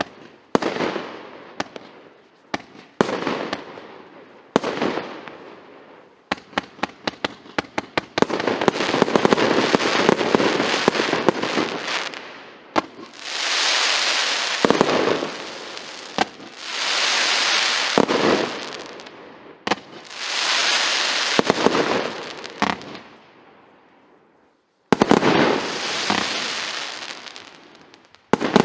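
A 110-shot firework cake of 1.25- and 1.4-inch tubes firing. Single shots come about every second and a half at first, followed by a quick run of shots. Then come long stretches of dense crackling bursts, a short lull, and more shots near the end.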